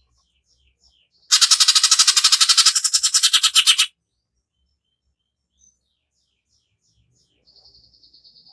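Cucak ijo (greater green leafbird) giving a harsh, rasping burst of rapid notes, about ten pulses a second for roughly two and a half seconds, set between soft scattered chirps. A faint, thin high trill begins near the end.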